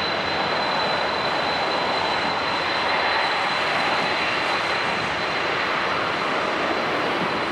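Jet airliner's engines heard as a loud, steady rush of noise with a thin, steady high whine over it.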